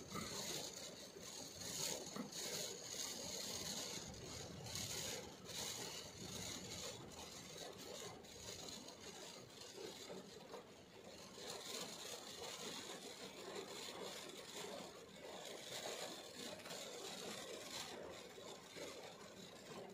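Heavy rain falling on a car, heard from inside the cabin as a steady, soft hiss with faint irregular taps.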